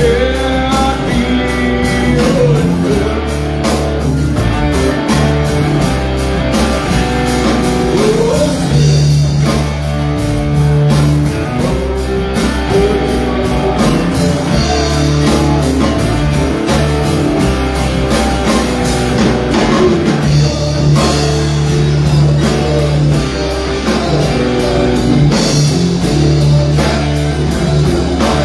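Live rock band playing, with guitars over a drum kit.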